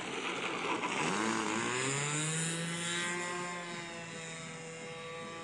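OS 55 glow engine of a radio-controlled trainer plane running at speed in flight, its pitch rising and then falling as it passes by.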